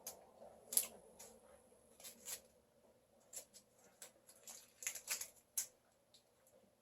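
Faint, irregular crackles and clicks of a Coffee Crisp chocolate bar's wrapper being handled and opened.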